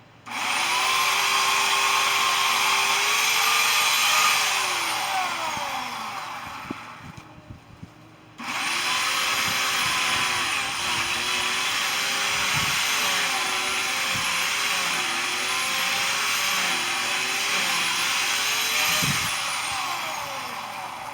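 Electric power tool motor running in two long bursts, each starting suddenly and winding down slowly after release. In the second burst its pitch dips and wavers repeatedly, as under load.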